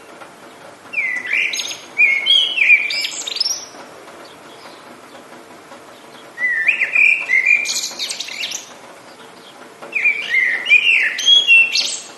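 A songbird singing three phrases, each two to three seconds long, made of quick sweeping notes that end in higher, sharper notes. Between the phrases there is a steady hiss of rain.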